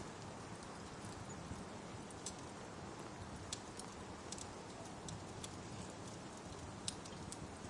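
Steady rain hiss with scattered sharp pops and crackles from a wood fire, coming at irregular moments, the loudest pop about seven seconds in.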